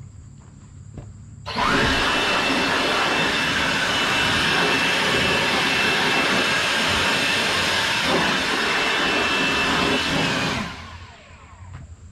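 MechMaxx 32 sawmill coming up to full power suddenly about a second and a half in, running loud and steady for about nine seconds, then dropping back to a low idle hum.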